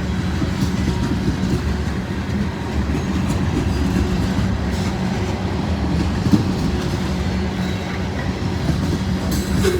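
Freight cars of a long CSX mixed manifest train rolling steadily past at close range: a continuous rumble with wheels clattering over the rails.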